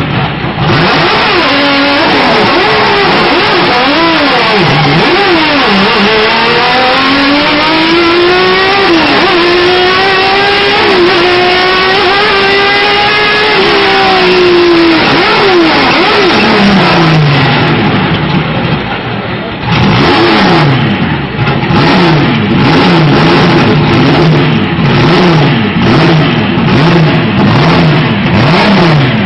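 Race car engine heard from inside the cockpit, accelerating with long climbs in pitch and holding high revs. About two-thirds of the way through it eases off, then revs rise and fall quickly over and over near the end.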